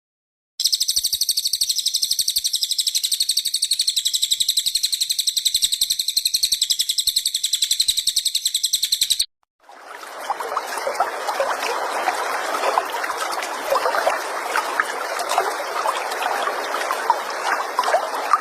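Recorded songbird sounds in an edited sequence. A high-pitched, very rapid, even trill runs for about nine seconds and cuts off. After a brief silence a lower, dense, scratchy chatter with many sharp ticks starts.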